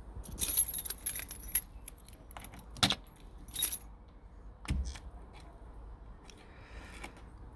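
Metal clinking and jangling of tools and parts as a stubborn motorcycle oil filter is worked loose. A quick cluster of clinks in the first second and a half, then a few separate knocks, and fainter handling noise in the last couple of seconds.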